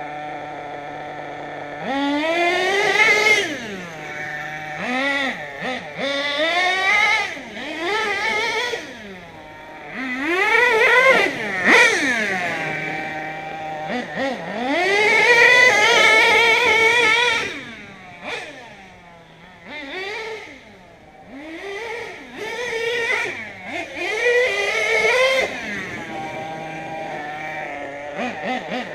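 Nitro engine of an HPI Savage RC monster truck idling steadily for about two seconds, then revving up and down over and over as the truck is driven hard, with short dips back toward idle.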